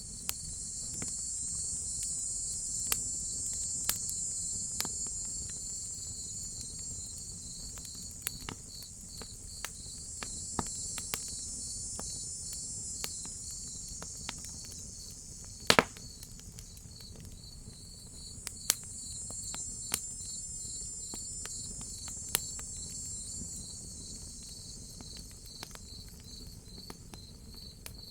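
Crickets chirping in a steady rapid pulse, with a higher insect drone, cicadas, swelling and fading in long waves. Under it a fire crackles with scattered pops, one sharp loud pop about halfway through.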